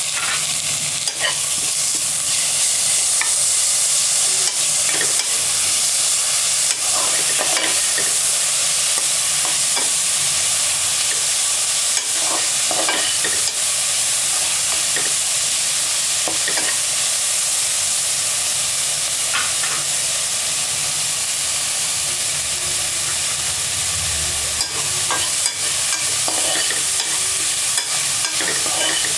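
Onions, green chillies and ginger-garlic paste sizzling in hot oil in a pressure cooker, with a spoon stirring and scraping against the pot in scattered clicks.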